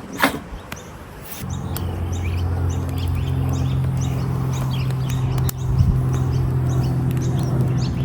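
Birds chirping with many short, quick calls. A sharp click comes just after the start, and about a second and a half in a steady low hum begins and carries on, louder than the birds.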